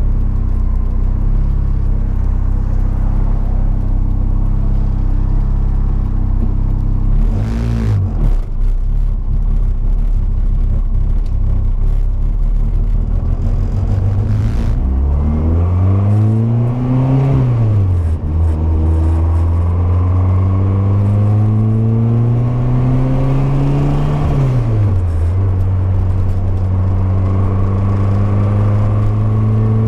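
Turbocharged car engine, its intake and exhaust cams just retarded, driving under load. The revs hold steady at first. Around halfway and again about three quarters in, they climb and then drop sharply, and they climb slowly once more near the end.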